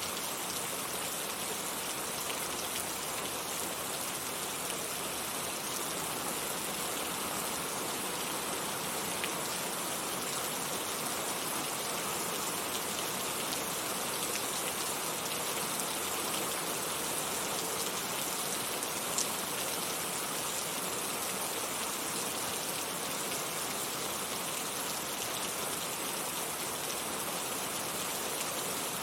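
Heavy rain pouring steadily: a dense, even hiss of drops, with a couple of single louder drop ticks standing out.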